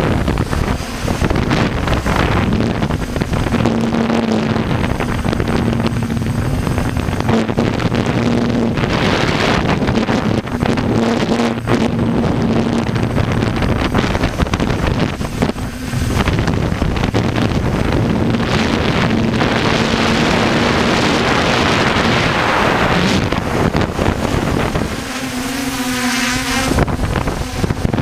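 A motor running steadily with heavy wind buffeting the microphone, and a low hum that fades in and out.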